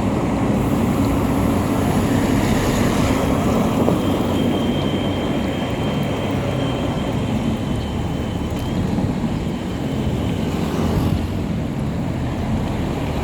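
Steady, loud rumbling noise of a vehicle on the move, with road and wind noise and no clear engine note. A faint high whine is heard for a few seconds in the middle.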